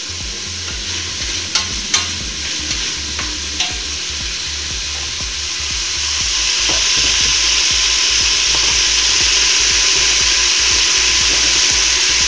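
Diced bacon and onions sizzling in hot oil in a pot as they brown, with a few sharp clicks in the first few seconds; the sizzle grows louder about halfway through.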